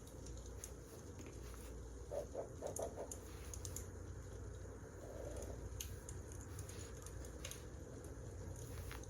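Wood fire crackling in a fireplace: a steady low rumble of burning logs with scattered sharp pops and snaps, including a quick cluster of pops about two seconds in.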